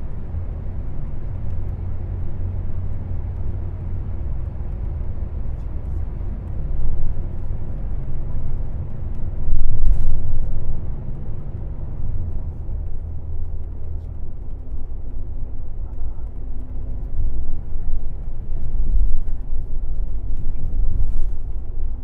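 Airport limousine coach under way, heard from inside the cabin: a steady low engine and road rumble that swells louder a few times.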